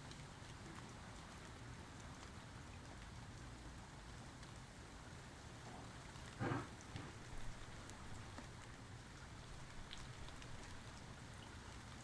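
Steady rain falling, with a brief louder thump about halfway through and a couple of softer knocks just after it.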